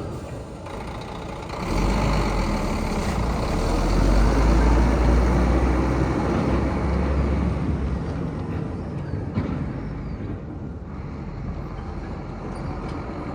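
Scania P114 dump truck's diesel engine running with a deep rumble that swells about two seconds in and eases off after about eight seconds.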